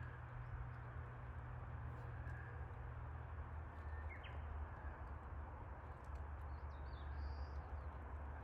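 Steady low outdoor rumble with faint bird chirps: a short one about halfway through and a brief higher run near the end.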